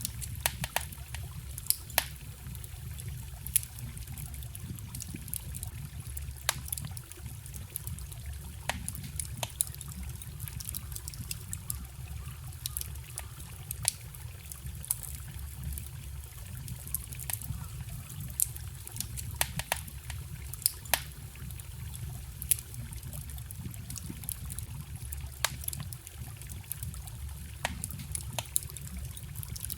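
Wood campfire crackling, with sharp, irregular pops several times a second, over the steady trickle of a small forest stream.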